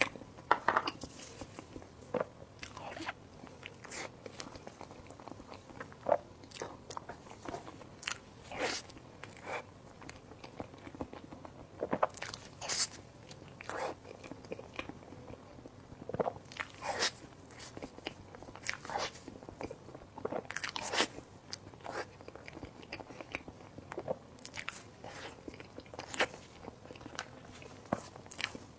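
Close-miked eating: a person biting and chewing food, with irregular sharp, crunchy mouth clicks and crackles spaced through the stretch.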